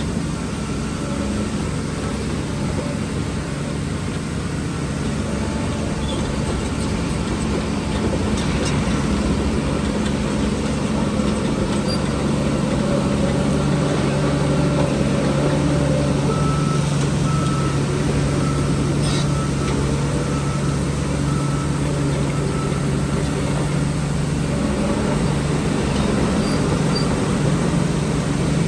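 Heavy diesel engine of a construction machine running steadily under load. It grows a little louder around the middle.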